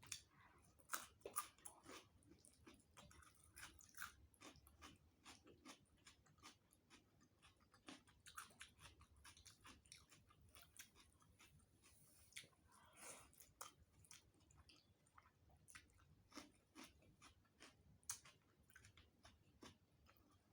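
Faint, close-miked chewing of a rice-and-curry meal: irregular wet mouth clicks and smacks, several a second, with an occasional crunch.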